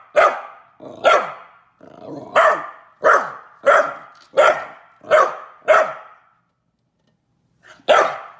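A dog barking in a steady series, about one bark every two-thirds of a second, then pausing for about a second and a half before barking again near the end.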